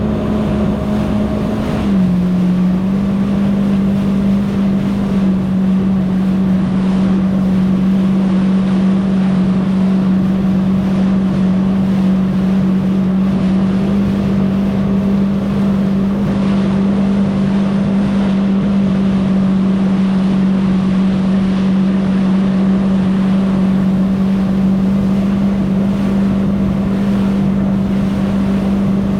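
Jet ski engine running at a steady speed, a held drone whose pitch dips slightly about two seconds in, with wind buffeting the microphone.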